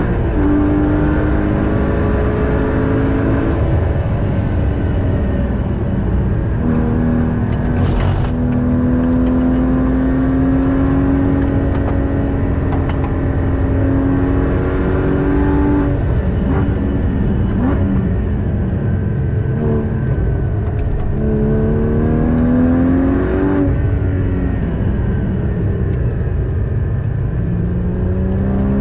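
Porsche Cayman GT4's 3.8-litre flat-six heard from inside the cabin at racing speed: the engine note climbs, holds steady for several seconds, falls away as the car slows, climbs again, drops sharply under hard braking, and starts climbing once more near the end. Road and wind noise run underneath, with a single sharp knock about eight seconds in.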